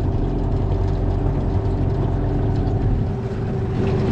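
Small boat's motor running steadily at low speed as the boat pulls in toward shallow water. Its lowest rumble eases off about three seconds in.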